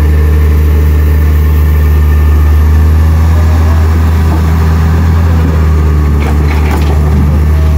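Heavy vehicle engine idling close by: a deep, steady hum that holds one pitch. A few brief knocks come about six and a half seconds in.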